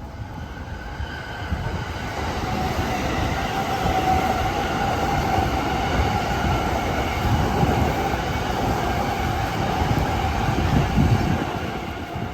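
Train passing close by: a rumble of wheels on the rails with a steady high whine over it, growing louder to a peak about eleven seconds in, then starting to fade.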